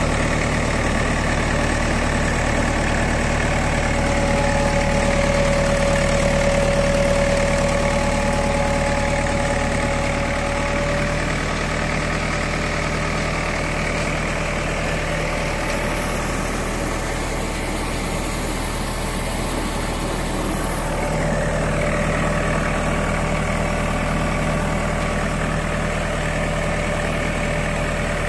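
Engine of a mobile irrigation pump truck running steadily on test, a constant hum with faint whines that come and go.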